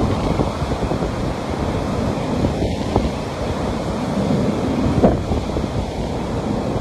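Sea surf washing onto a beach: a steady, continuous rush of waves, with wind noise on the microphone.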